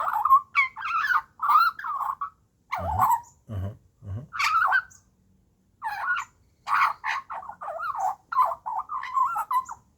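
Juvenile Australian magpie calling in runs of wavering, warbling squawks with short breaks, and a pause of about a second near the middle.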